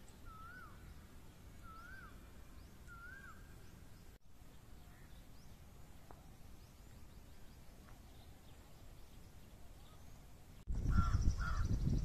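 A bird repeating a short whistled note that rises and then drops, about once a second, over a faint outdoor background; the calls stop about four seconds in. Near the end the sound jumps much louder with a low rumble and two short bird calls.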